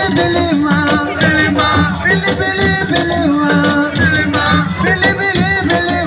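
Live assiko band music with a shaker rattling through the beat and a melody line over it.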